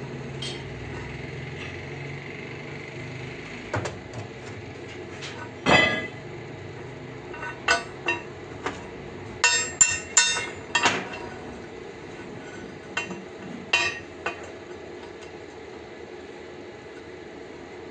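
Irregular metal knocks and clanks, as of hammering or handling steel parts at a workbench, a dozen or so with ringing tails. The strongest comes about six seconds in and a quick cluster follows around ten seconds, over a steady workshop background noise.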